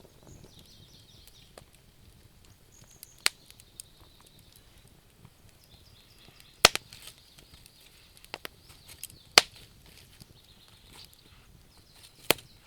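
Wood fire crackling, with scattered sharp pops; four loud ones stand out, the strongest about seven and nine seconds in.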